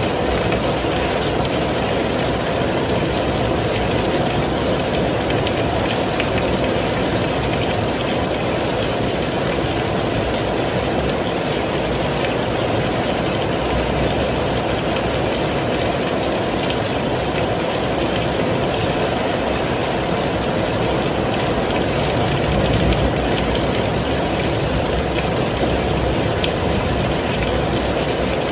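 Heavy rain falling steadily, a dense, even rush that is fullest in the low and middle range, with no breaks or changes.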